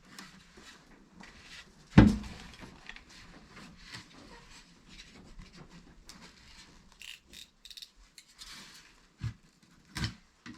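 A single loud thump about two seconds in, then faint scattered clicks and rubbing, and two sharper knocks near the end.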